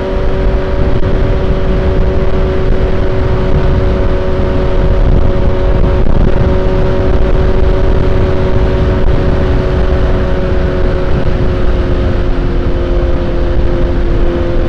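Suzuki GSX-S750's inline-four engine holding a steady note at constant cruising speed, with heavy wind rush on the rider's microphone.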